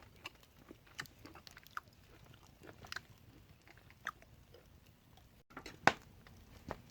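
A person chewing food, with scattered soft clicks and one sharper click about six seconds in.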